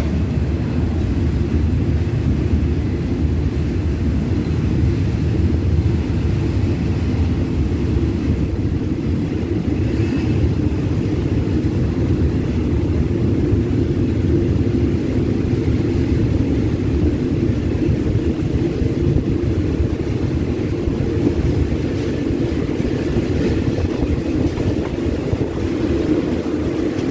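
Passenger train rolling slowly out of a station, heard from an open carriage window: a steady low rumble of the moving train.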